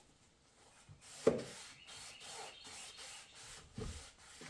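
Paper towels rubbing and wiping up spilled transmission fluid, a dry rustling scrub, with a sharp knock about a second in and a duller thump near the end.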